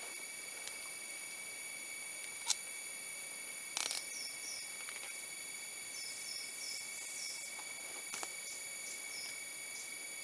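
Forest insects, crickets or cicadas, keeping up a steady high-pitched drone on several pitches, with short bird chirps in the second half. Three sharp knocks or clicks stand out over it, the loudest about a third of the way in.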